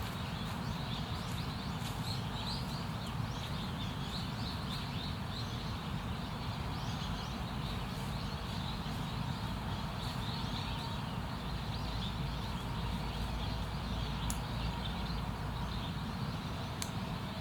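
Small birds chirping in short high notes, mostly in the first half, over a steady low rumble of outdoor noise.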